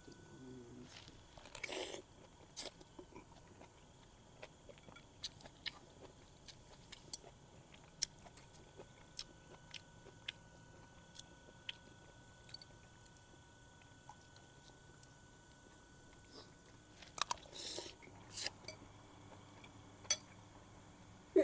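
A person eating close to the microphone: chewing and biting with scattered small clicks, with louder crunchy bursts about two seconds in and again near the end.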